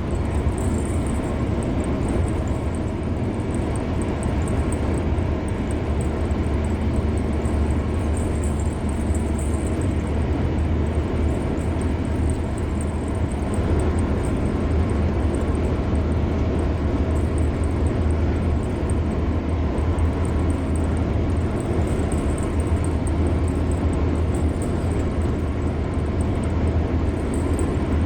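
Car driving at a steady speed on a highway: continuous road and tyre noise over a deep, even rumble, unchanging throughout.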